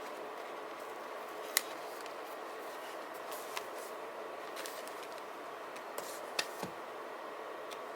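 A few short, light clicks and taps from handling paper and stickers, spaced several seconds apart over a steady hiss. The sharpest click comes about one and a half seconds in, and a close pair follows past six seconds.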